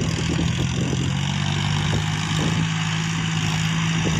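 John Deere 5050D tractor's three-cylinder diesel engine running at a steady speed.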